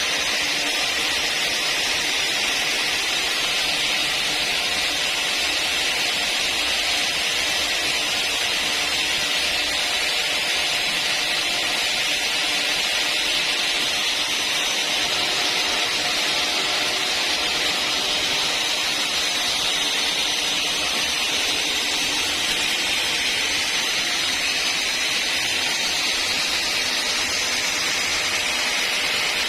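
Sawmill saw running steadily through a long cut in timber, an even, unbroken hiss with no breaks or changes.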